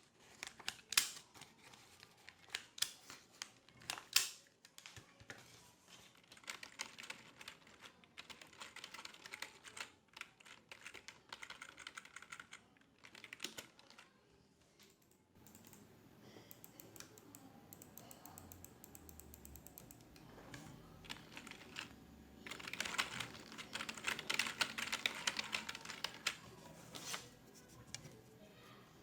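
Typing on a computer keyboard in bursts of rapid key clicks, with a few separate louder clicks near the start.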